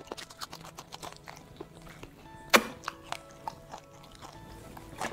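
A man chewing and biting crispy fried chicken, with many small crunching clicks and one sharp louder crunch about halfway, over background music.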